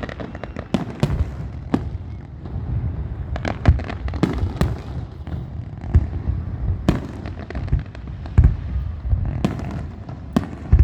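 Fireworks display: a run of sharp bangs from shells bursting at irregular intervals, some trailing a crackle, over a steady low rumble.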